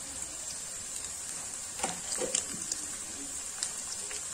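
Onions and freshly added ginger-garlic paste frying in hot oil in a kadhai, a steady sizzle with a few sharp crackles and clicks about two seconds in.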